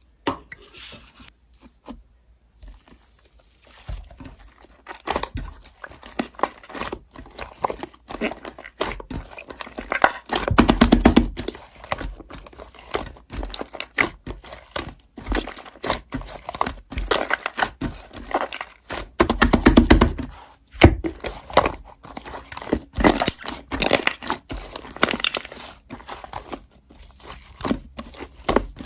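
Slime being squished, poked and stretched by hand, making a steady run of sticky clicks and pops. Two louder stretches of dense popping come about ten and twenty seconds in.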